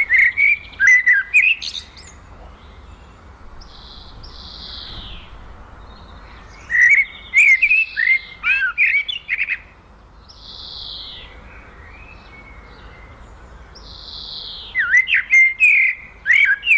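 Songbird singing outdoors: three bursts of quick, rapidly rising and falling chirps, several seconds apart, with single high, falling notes in between.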